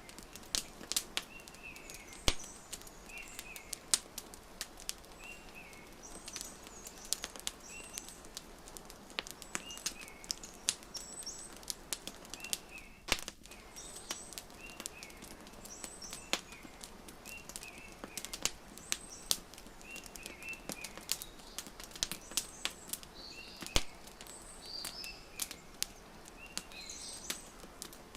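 Wood fire crackling, with frequent sharp pops over a soft hiss, while small birds chirp over and over, a short call about every second.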